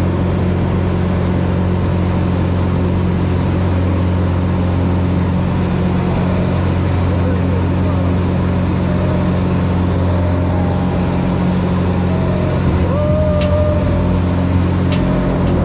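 Small propeller airplane's engine droning steadily and loudly, heard from inside the cabin.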